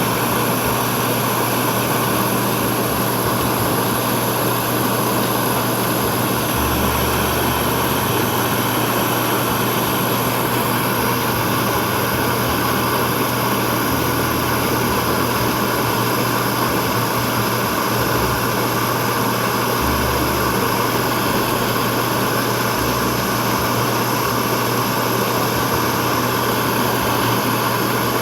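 Gas camping stove burner running steadily at full flame under a kettle of water being brought to the boil.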